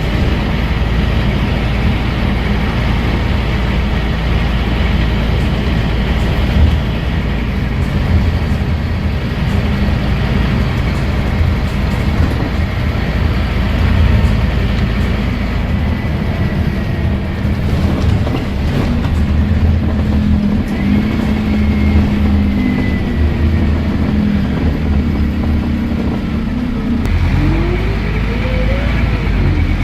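Scania N230UD double-decker bus running under way, its diesel engine and ZF Ecomat automatic gearbox giving a steady drone with a thin gearbox whine over it. Near the end a whine rises in pitch as the bus picks up speed.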